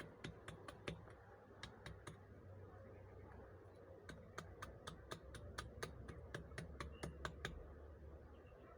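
Faint, irregular run of light wooden clicks, about two to four a second and busier in the second half, from a knife and freshly shaved feather sticks of soaked wood being worked and handled.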